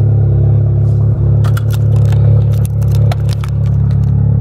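Volkswagen MK7 Golf's turbocharged four-cylinder idling steadily on its old custom exhaust, a low drone heard inside the cabin. Over it come several sharp clicks and scrapes in the middle of the stretch, as seatbelts are buckled and things are handled in the car.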